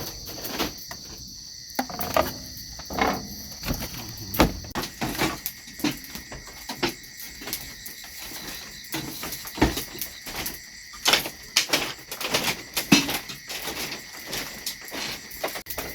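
Insects, crickets or cicadas, trilling steadily in the background, with frequent irregular clicks and knocks of objects being handled close by.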